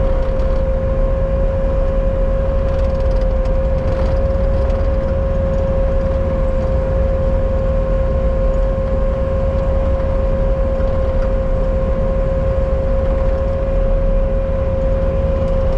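Bobcat skid steer's diesel engine running steadily, a low rumble with a steady high whine over it.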